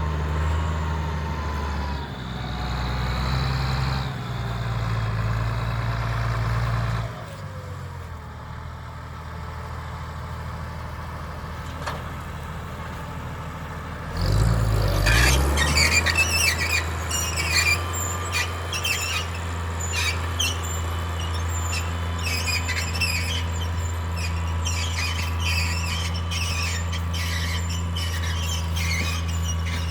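Case IH 1056 XL's six-cylinder diesel running under load. It eases off about seven seconds in and revs up again about fourteen seconds in. From then on the Överum plough squeaks and squeals rapidly and without pause, like an old spring bed.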